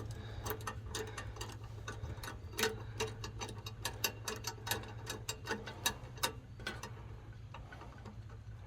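Irregular light metallic clicks and taps, a few a second, from hands working the new auger control cable and its fittings at the snowblower's bottom pulley, over a steady low hum.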